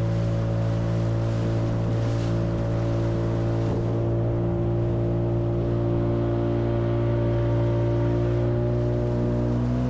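An engine running steadily at constant speed, its pitch stepping up slightly near the end.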